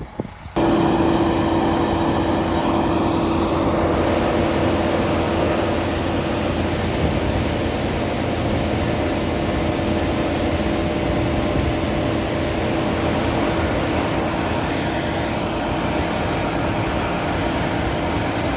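Combine harvester working in the field, with a tractor and trailer running alongside: a steady, loud machinery drone with a constant hum. It starts abruptly about half a second in.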